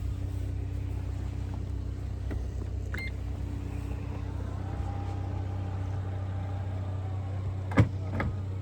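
A car's engine idling with a steady low hum, with a few short clicks, one about three seconds in and two near the end.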